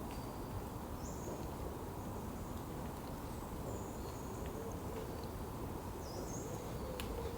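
Woodland ambience: short, high, thin bird calls about three times, a few seconds apart, over a steady low rumble of background noise, with one sharp click near the end.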